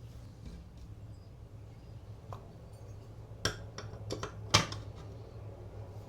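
A few light clicks and knocks of small hard parts being handled, the loudest about four and a half seconds in, over a low steady hum.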